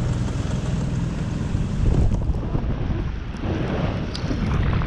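Wind rushing over the microphone, a steady low rumble under a noisy hiss.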